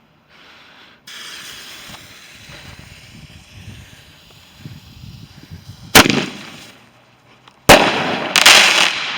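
A firework set off: a hiss for several seconds, then two sharp loud bangs nearly two seconds apart. A longer loud burst follows the second bang.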